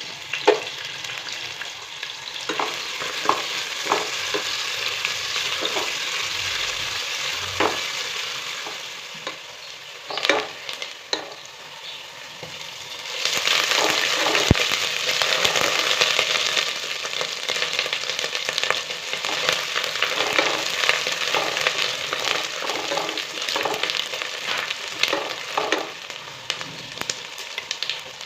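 Food sizzling as it fries in a pan, with a utensil clicking and scraping against the pan as it is stirred. The sizzle grows louder about halfway through.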